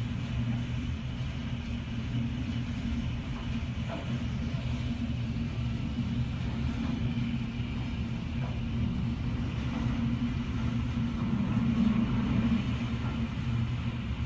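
Hurricane Irma's wind heard from indoors behind a window: a steady low rumble that swells slightly near the end.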